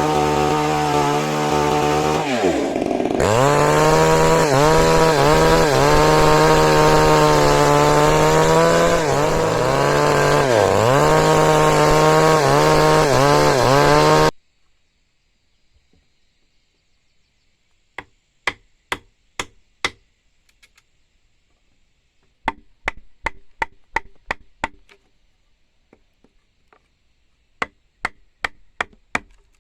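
Chainsaw running at high revs, its engine note dropping and recovering about two seconds in and dipping again several times as it cuts wood, then cutting off suddenly about halfway through. After a pause, three quick runs of sharp knocks follow, several a second.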